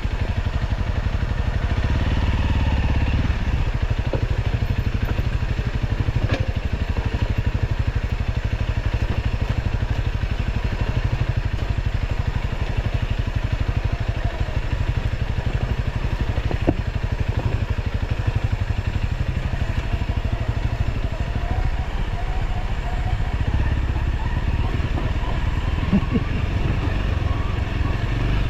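Motorcycle running steadily while being ridden along a road.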